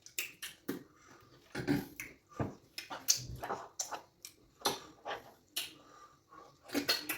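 Close-up eating sounds: irregular wet chewing and lip smacks, with a few clicks, as fufu with okra soup is eaten.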